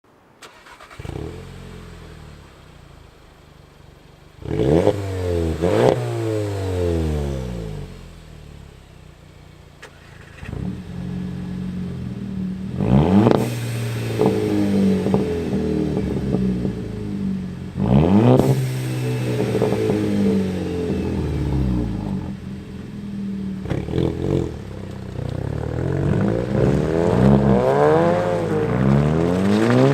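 Turbocharged 2.0-litre four-cylinder Volkswagen engine through a resonator-deleted exhaust, revved again and again: each rev climbs quickly in pitch and falls back to idle, several times over.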